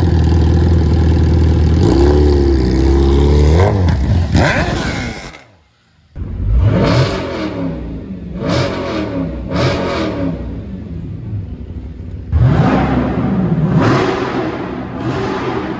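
Car engine revving hard and loud. It is steady for the first few seconds with rising pitch toward the end of that stretch, then drops out briefly about five and a half seconds in. After that come several short blips of the throttle and one more long rev near the end.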